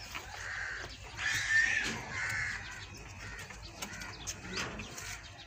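Three harsh bird calls in quick succession in the first half, with faint scattered clicks around them.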